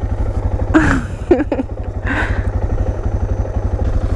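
Motorcycle engine idling with a steady, rapid low pulse, and a few short voice sounds about a second in.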